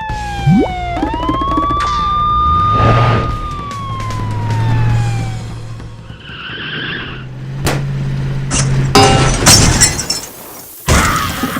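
Cartoon sound effects. A siren-like whistle tone falls, then rises and holds before falling away again over a low hum. A cluster of sharp crashes and clatters comes near the end.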